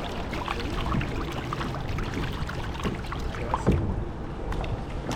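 Kayak paddles dipping and splashing in the water, with irregular small splashes and drips and a louder splash about three and a half seconds in.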